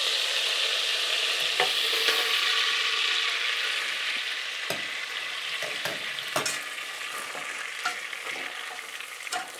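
Butter and sugar sizzling in a pot on the stove while being stirred with a spoon, the sugar melting into the butter. The hiss fades gradually, and the spoon knocks against the pot a few times.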